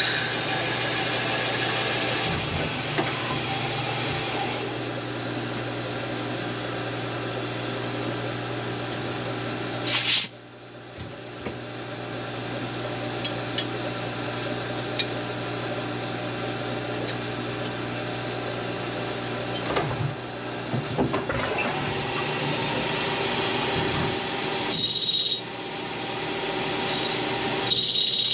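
CNC turning center machining a bronze bushing dry, without coolant: a steady machine and spindle hum with cutting noise. About ten seconds in there is a short sharp burst, then the sound drops away and builds back up. Short high-pitched bursts come near the end.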